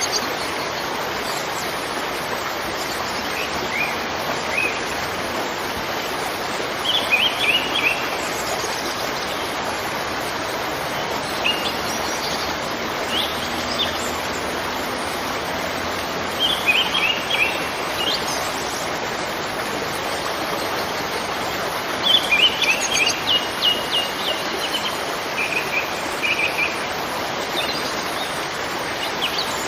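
Steady rush of a waterfall, with birds calling over it in short runs of quick high chirps every few seconds.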